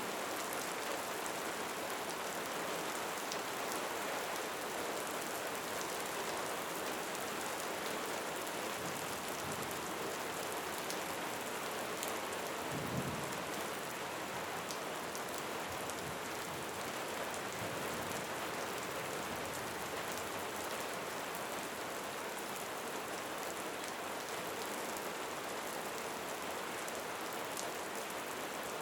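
Steady rain falling, an even hiss with scattered sharper drop hits, and a single brief low thump a little before halfway.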